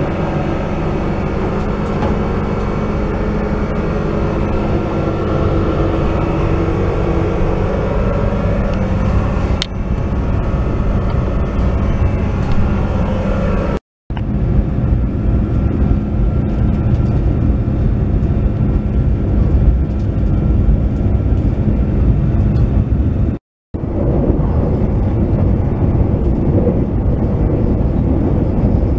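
Steady rumble and hum of an Indonesian Argo Parahyangan passenger train coach running on the rails, heard from inside the carriage. The sound is broken twice by a brief dead silence, once about halfway through and again near the end.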